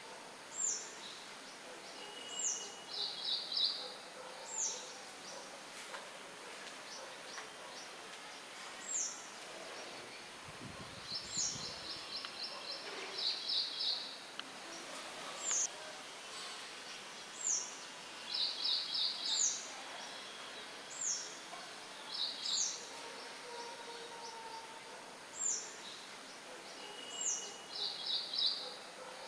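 Songbirds chirping over a steady hiss of light wind. The birds give short high notes that slide down, repeated every second or two, and now and then a quick trill of several notes. A brief low rumble comes about ten seconds in.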